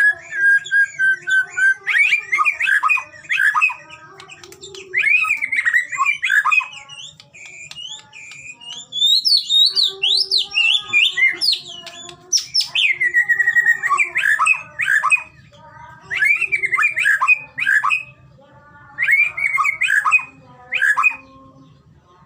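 White-rumped shama (murai batu) singing: loud, varied whistles and quick chattering phrases that glide up and down, delivered in bursts of a few seconds with short pauses between them.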